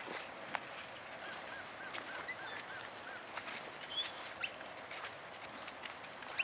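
A bird calling: a run of short, evenly spaced rising-and-falling notes, about three a second, over a steady outdoor hiss with a few scattered clicks.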